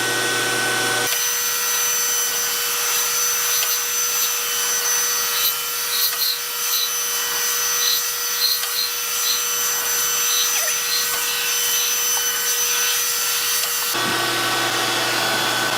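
DoAll 14-inch surface grinder running with a steady whine as it grinds a steel Kurt vise. The low hum drops away about a second in and comes back near the end, and faint high chirps recur in between.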